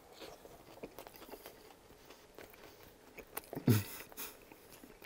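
Close-miked chewing of a bite of cornflake-crusted buffalo chicken wrap: soft crunches and wet mouth clicks, with a short louder voiced exhale through pursed lips about three and a half seconds in.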